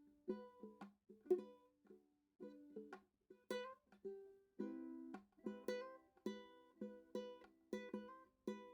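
Background music: a ukulele-like plucked string instrument strumming chords in a steady rhythm, closing on a final chord that rings out.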